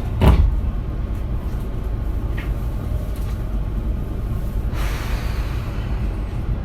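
Running noise of a Tobu 20400 series electric train: a steady low rumble with a sharp knock about a quarter second in. A hissing noise joins about five seconds in.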